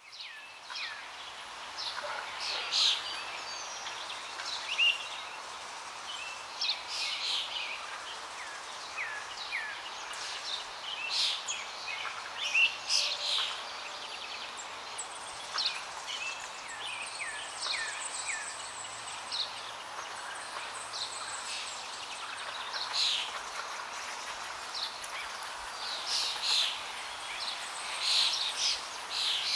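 Small birds chirping and twittering, many short high calls and quick falling notes overlapping throughout, over a steady background hiss.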